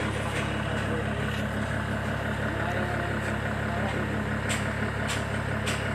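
Concrete pump truck's engine running steadily at a constant pitch, with a few short sharp hisses or clicks near the end.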